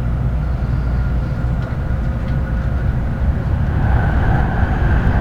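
Running noise inside the passenger cabin of an N700-series Shinkansen at speed, a loud, steady low rumble, with the train running through the Shin-Kanmon Tunnel.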